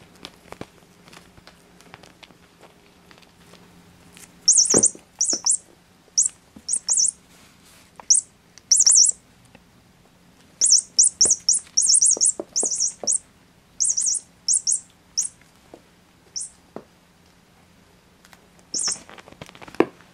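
Toy bird that chirps when bitten or shaken, giving short high chirps in quick irregular clusters, with scattered soft knocks on the floor. The chirping starts a few seconds in, stops for a few seconds near the end, then comes back briefly.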